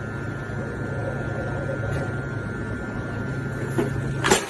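A steady low mechanical rumble with a constant hum, like a vehicle running, ending in a sharp knock near the end.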